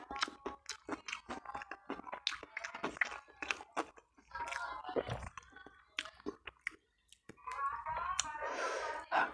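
Close-miked chewing of a mouthful of sardine and omelette, with many quick wet mouth clicks and smacks. The chewing pauses briefly past the middle, and a short stretch of voice is heard near the end.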